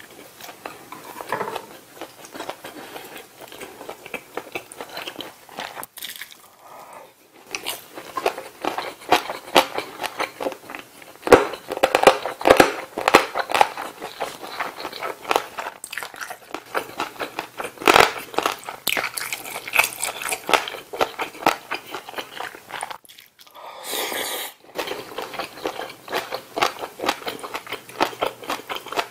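Close-miked chewing of a mouthful of rice and food: irregular wet smacking and crunching mouth sounds, broken by two short pauses.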